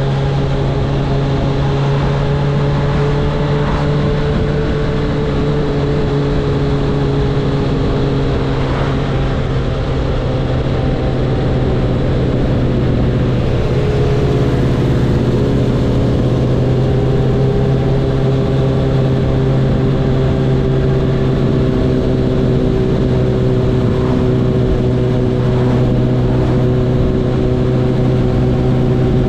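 Honda CB1000R's inline-four engine running steadily, its pitch drifting only slightly up and down.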